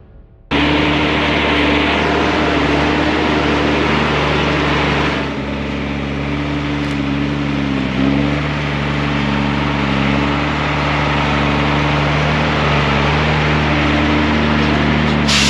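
Ex-army Unimog truck driving on a gravel road: steady engine drone with road and rattle noise, starting abruptly about half a second in.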